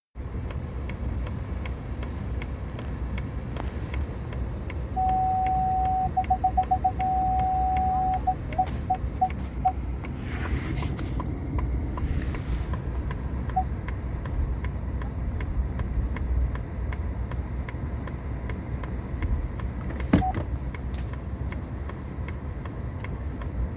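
Steady low rumble of a vehicle running in the snowstorm. About five seconds in, a single-pitched electronic beep sounds for about three seconds, then breaks into a few short beeps, with one more short beep a few seconds later.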